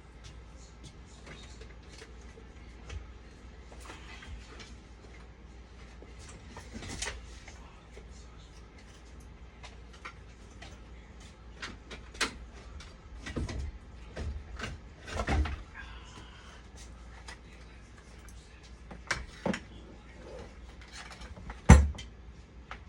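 Hands handling tools and small parts on a workbench: scattered clicks, taps and rustles, with a sharp knock near the end.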